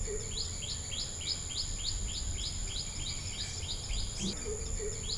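A bird calling a fast run of short, evenly repeated chirps, about three a second, over a steady high insect drone.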